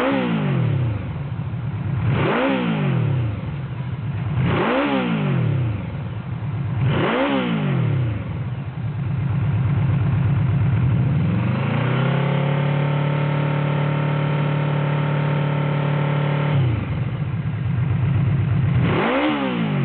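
Yamaha VMAX 1700's V4 engine through an RC Koshien HITMAN titanium slip-on exhaust, idling and blipped four times in quick, even succession, then held at a steady higher rev for about five seconds before dropping back to idle, with one more blip near the end.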